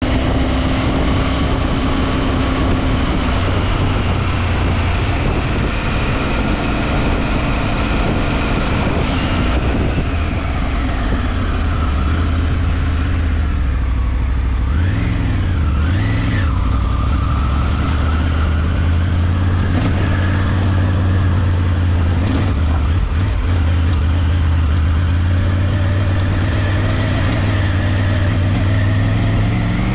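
Motorcycle engine running under way, slowing from road speed to a crawl: its note falls, wavers briefly about halfway through, and rises again near the end as the bike pulls on.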